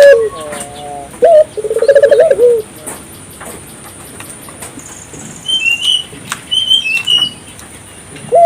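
Barbary dove (burung puter) cooing. About a second in comes one call: a short opening note, then a quick rolling coo that drops in pitch at the end. Later a few short, high chirps from a smaller bird come in several quick groups.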